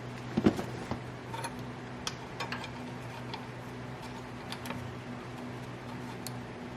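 Scattered light clicks and taps of a saw chain and tools being handled, the sharpest about half a second in, over a steady low electrical hum.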